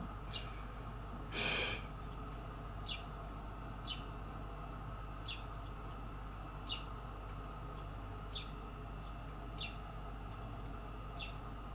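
A small bird calling a short, falling chirp, about eight times at intervals of one to two seconds. A brief burst of noise about one and a half seconds in is the loudest sound, over a steady low hum.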